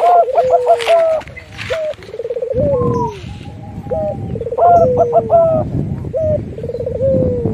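Several doves cooing over one another in a mix of zebra dove (perkutut), Barbary dove (puter) and spotted dove (tekukur) calls. Long falling coos alternate with quick rolling series of short coos. A low rumbling noise runs underneath from about two and a half seconds in.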